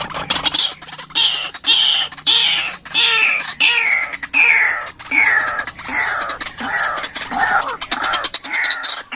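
White-breasted waterhen (ruak-ruak) calling: a steady series of harsh notes, each falling in pitch, about two a second.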